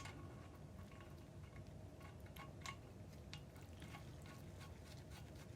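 Quiet room tone with a few faint, scattered clicks and ticks, typical of small metal parts being handled while the hub nut goes onto the greased wheel hub.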